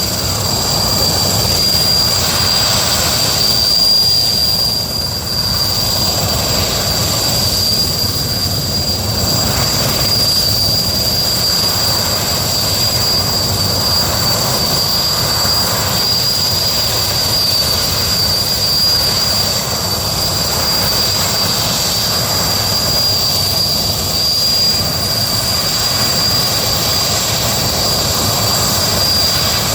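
Sikorsky S-64 Skycrane helicopter running, its two turboshaft engines giving a steady high whine over loud, even rotor and engine noise.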